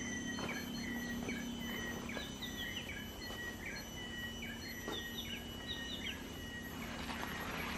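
A bird calling a run of short chirps, each with a quick upward hook, repeated about every half second and stopping about six seconds in. Underneath runs a steady faint high whine and a low hum.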